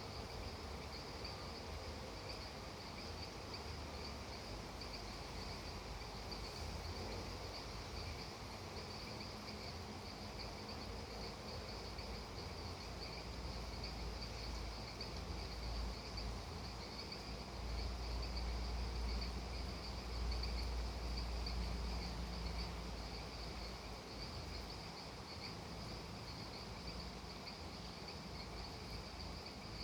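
Steady insect chorus, a high, finely pulsing trill like crickets, over a low rumble that swells from about 18 to 22 seconds in.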